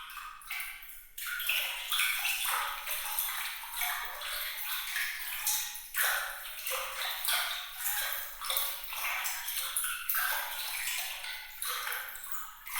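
Water trickling and splashing lightly, a bright crackle of many small splashes and drops with nothing deep under it. It is thinner for about the first second and then runs on evenly.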